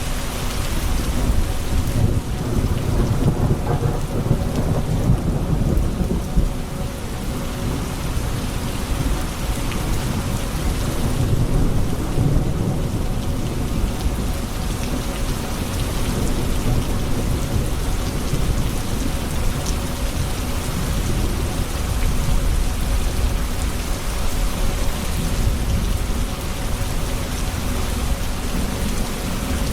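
Thunderstorm: steady heavy rain falling on hard surfaces, with low rolling thunder that swells twice in the first half.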